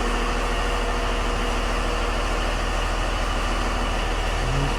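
Steady idle of a school bus's Cummins 5.9-litre turbo-diesel engine, mixed with the even hiss of the air-conditioning blower, heard from the driver's seat area.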